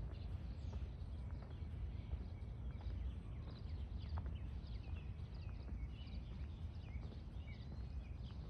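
Many birds chirping and calling at once, short overlapping chirps and whistles with no let-up, over a steady low rumble.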